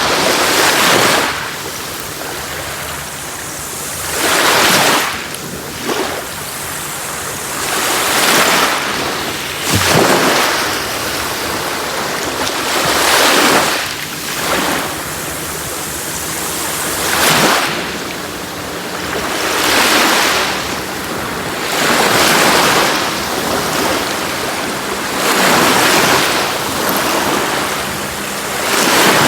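Sea waves breaking on a beach: about ten surges that swell and fall away, one every three seconds or so, with a steady wash of surf between them.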